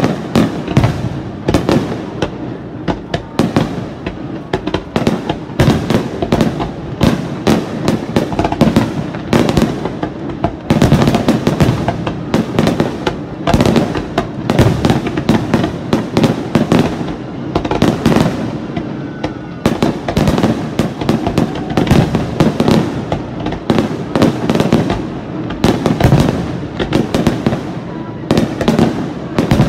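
Aerial firework shells bursting in a rapid finale barrage, with loud bangs coming several a second without a break.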